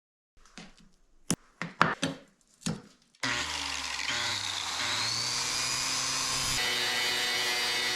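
A few sharp knocks, then about three seconds in a power tool such as a grinder starts and runs steadily on metal.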